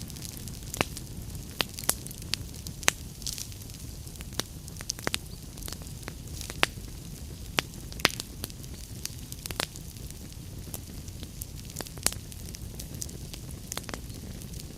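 Wood fire in a fireplace crackling: irregular sharp pops and snaps, a few louder than the rest, over a steady low rumble of burning logs.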